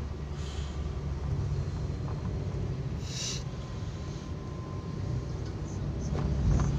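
Steady low road and engine rumble inside a moving taxi's cabin, with a short hiss about three seconds in and the rumble swelling near the end.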